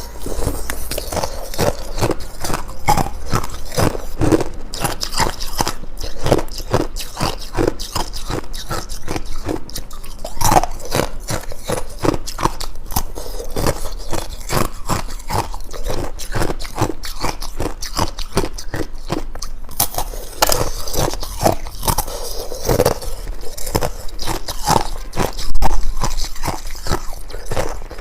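Ice being bitten and crunched between the teeth close to the microphone, with rapid, irregular cracks throughout and one louder crunch near the end.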